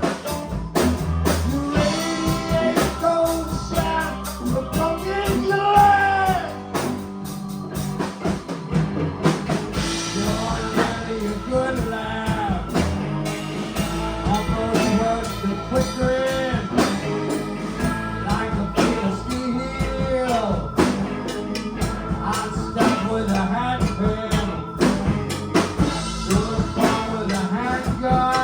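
A band playing a rock song: drum kit and guitar with a sung vocal line.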